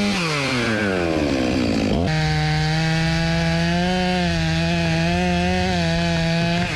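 Chainsaw working through sycamore logs. Its revs sag away over the first couple of seconds, snap back up to full throttle about two seconds in, and hold high and steady with slight wavers in the cut, falling off again at the very end.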